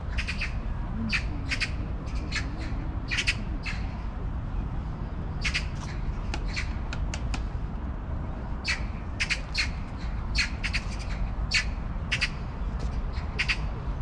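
A bird giving runs of short, sharp calls in quick groups of two to five, repeated irregularly, over a steady low outdoor background hum.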